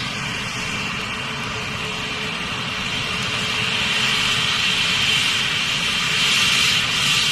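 Jet engine running with a steady high whine over a low rumble, growing slowly louder toward the end.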